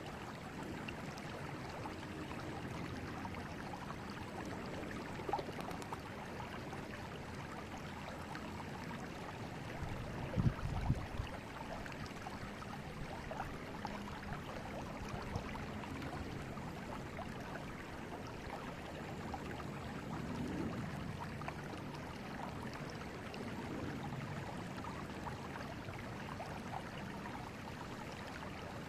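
River water flowing steadily, a continuous rushing with a brief louder low rumble about a third of the way through.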